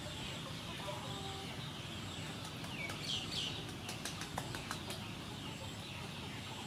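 Steady outdoor background hiss with a few short bird chirps about three seconds in and a scatter of small clicks around them.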